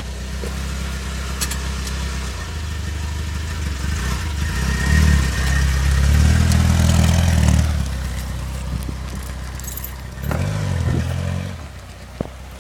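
Mitsubishi Sigma's petrol engine running with its revs held up, rising for a few seconds in the middle and again briefly near the end, then falling back. It is straining to stay running on fuel still contaminated with diesel.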